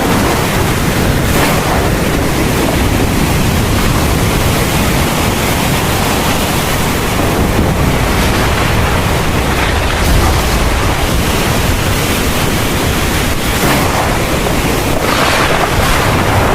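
Heavy rain pouring in a steady downpour, with a low rumble underneath.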